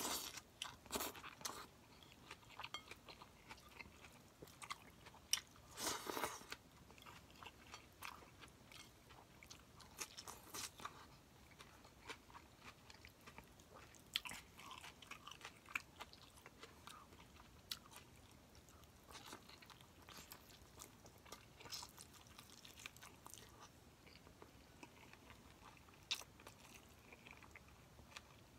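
A person chewing and biting on a mouthful of rice and roast chicken, faint and irregular, with a scatter of short wet mouth clicks and a louder bite about six seconds in.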